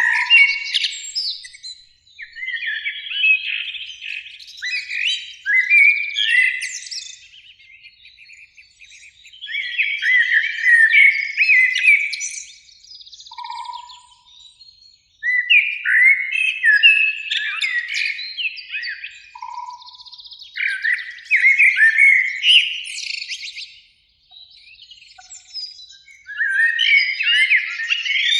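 Common blackbird singing: a series of warbled phrases, each one to three seconds long, with short pauses between them and higher twittering flourishes at their ends.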